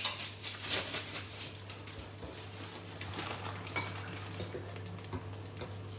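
A metal spoon clinking rapidly against a bowl and a frying pan for about a second and a half as batter is dropped in, then battered fritters frying in shallow oil with a steady sizzle and a few odd clinks.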